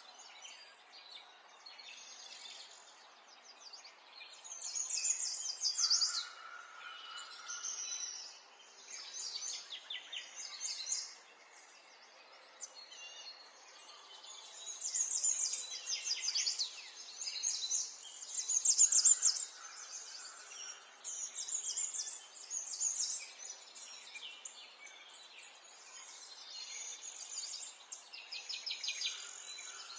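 Several songbirds singing in bursts of rapid, high chirping trills lasting a second or two each, one after another, over a faint steady background hiss.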